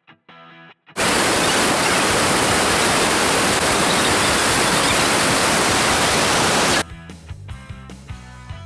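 Loud, steady rushing noise that cuts in abruptly about a second in and stops just as abruptly near the end, with background guitar music before and after it.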